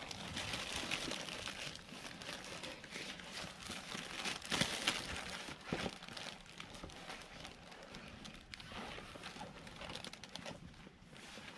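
Irregular crinkling and rustling handling noise with scattered small clicks.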